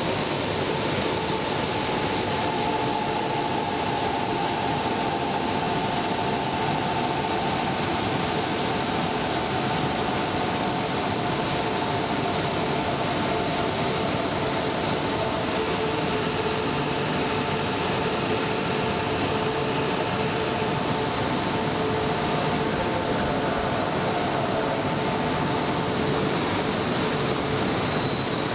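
A shinkansen train set (E3 series coupled to an E5) standing at the platform with its auxiliary equipment and cooling fans running: a steady hum and whir holding a few steady tones. A faint high-pitched whine begins near the end.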